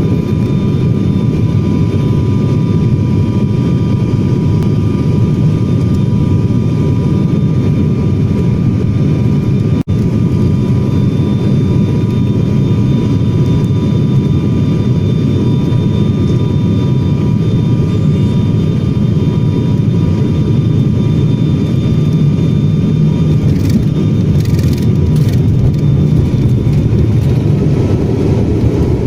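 Airliner jet engines and airflow: a steady low rumble with faint, steady whining tones above it.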